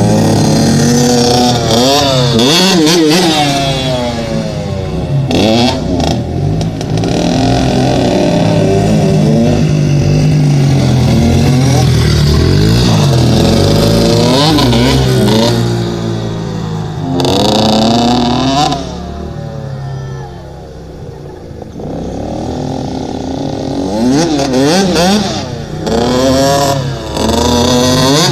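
Dirt bike engine revving up and down over and over, the pitch climbing and dropping with each throttle blip and gear change. It drops to a quieter, lower running about two-thirds of the way through, then revs up again.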